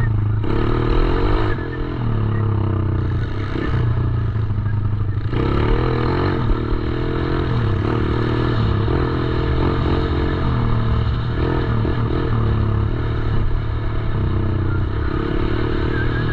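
Small 110cc dirt bike engine running, its pitch rising and falling repeatedly as the throttle is opened and eased off.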